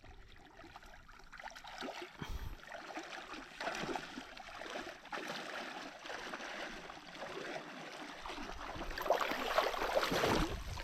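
Shallow river water trickling and lapping around a person in the water, with small splashes, growing louder near the end.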